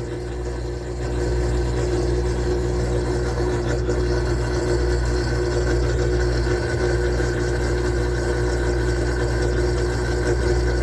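Whirlpool washing machine spinning a large load of towels: a steady motor and drum drone with a hum, growing a little louder about a second in.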